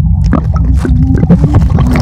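Muffled underwater sound of a pool picked up by a camera held below the surface: a heavy low rumble and water churning, with a faint wavering tone in the second half.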